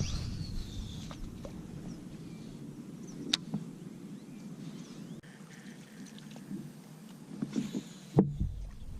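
Quiet on-the-water sounds from a fishing kayak: a low rumble with a few small clicks and knocks from gear being handled, and one sharp knock about eight seconds in.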